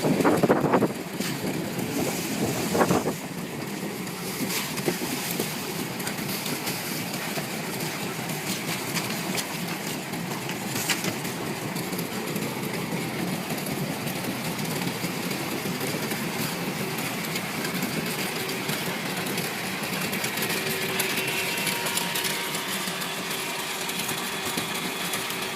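Air bubble vegetable washing machine running with a steady mechanical noise. Two louder knocks come in the first three seconds, and a faint steady hum joins about twenty seconds in.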